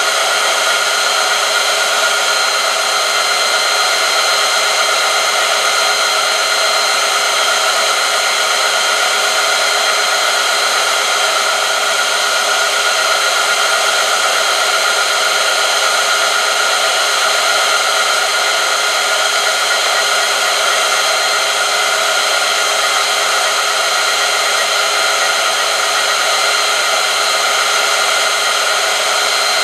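Oil film strength test machine running steadily under load, its electric motor spinning against a steel test sample bathed in heated oil. It gives a loud, even whir with several held high tones that does not change.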